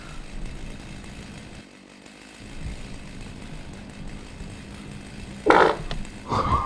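A chainsaw running low and steady, with two short loud bursts near the end.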